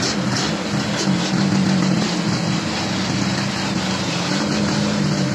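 Engine running steadily, its pitch wavering slightly up and down.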